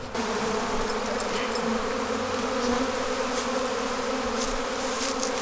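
A swarm of honeybees buzzing steadily around an open hive, a dense, even hum. The bees are agitated by the hive being opened and its frames moved.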